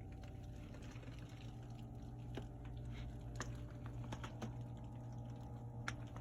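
Firework boxes being handled, giving faint scattered clicks and light rustling over a steady low hum.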